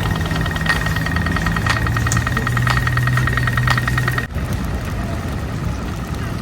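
A rapid, high-pitched electronic ticking or beeping over a steady low engine hum, as from a street signal or vehicle warning beeper beside an idling vehicle; both stop abruptly a little over four seconds in, leaving general street noise.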